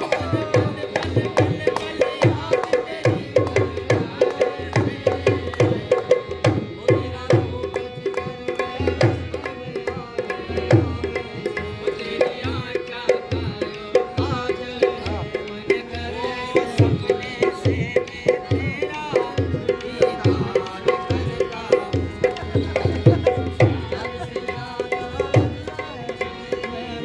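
Indian folk hand drum played fast with the fingers in a dense rhythmic run, over a steady sustained melody.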